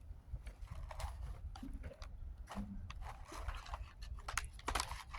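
A person chewing and biting food close to the microphone, with many small irregular wet clicks and crunches.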